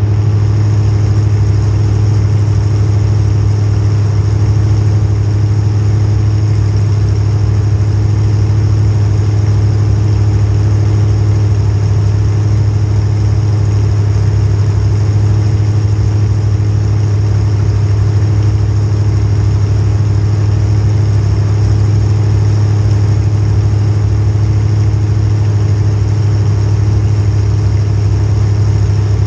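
Demolition derby car's small-block Chevy V8 running at a steady idle, with no revving.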